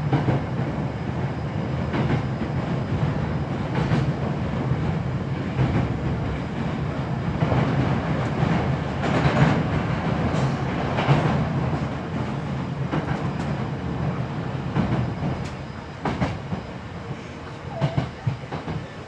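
Running sound of a Hankyu 7300 series train heard from the car floor: a steady low rumble of wheels and drive, with clickety-clack of the wheels over rail joints. It gets quieter over the last few seconds, with a few spaced clacks.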